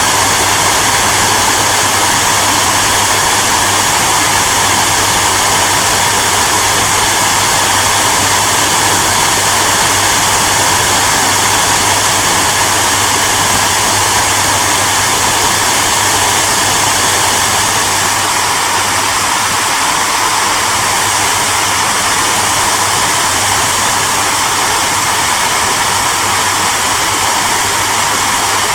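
Electric hairdryer running steadily: a continuous blowing rush with a low motor hum underneath.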